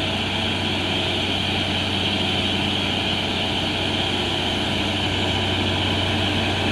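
Heavy diesel truck engine running steadily under load as the truck climbs an incline.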